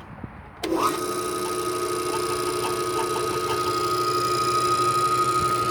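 Jet JDP-15MF drill press switched on: its motor and spindle start up with a quick rising whine about half a second in, then run at a steady speed with a constant hum and whine.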